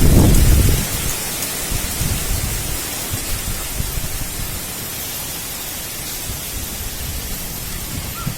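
Strong wind and heavy rain: a steady hiss, with a low rumble during the first second that then settles into the even rush of the storm.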